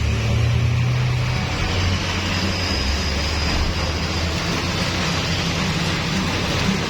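Heavy truck engine running with a low, steady drone under road noise.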